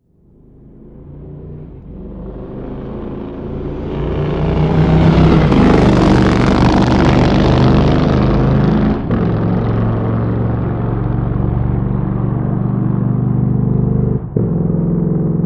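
Motorcycle engine running. It fades in from silence, grows loudest after about five seconds, and holds steady after that. The sound dips briefly twice, about nine and fourteen seconds in.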